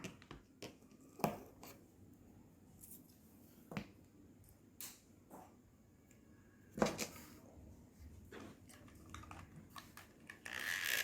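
Scattered light taps and clicks of small craft pieces being handled and set down on a table, a few seconds apart.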